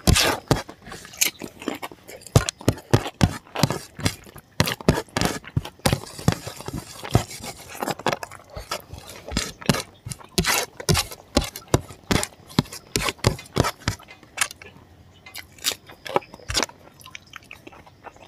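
Close-miked chewing and mouth smacking of a person eating spicy pork curry with rice: a dense run of short sharp clicks that thins out after about fourteen seconds.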